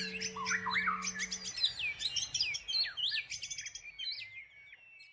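Many small birds chirping and twittering in quick, overlapping calls, over a held low music note that ends about a second and a half in. Everything fades out toward the end.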